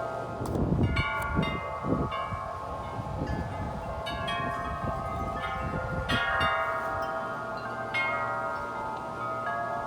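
Several large tuned metal-tube wind chimes ringing in a strong wind, with overlapping long-ringing tones and fresh strikes every second or two. Gusts of wind rumble on the microphone through the first half.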